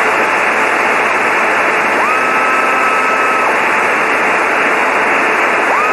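Cessna 152 cockpit noise heard through the headset intercom: the engine and airflow make a steady, dense hiss. About two seconds in, a high whistle-like tone slides up and holds for about a second and a half, and it starts again at the very end.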